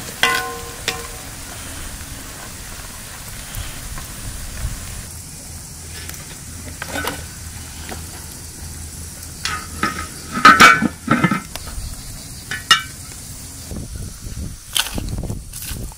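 Food sizzling as it fries in a pan, with scattered clinks of a metal utensil stirring it. A short ringing clink comes at the start, and a louder burst of clatter and scraping about ten seconds in.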